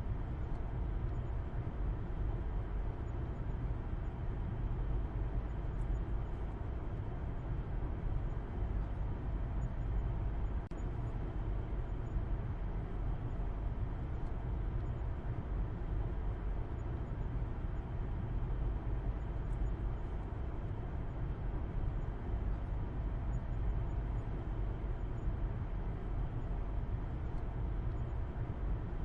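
Steady engine hum and road rumble of a car driving at a constant speed, heard from inside the cabin, deep and even with no gear changes or other events.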